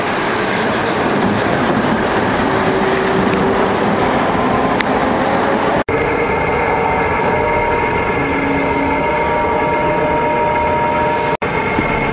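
Tram and street traffic noise, a dense steady rumble. About halfway through, a steady hum of several held tones joins it. The sound drops out abruptly for an instant twice, once midway and once near the end.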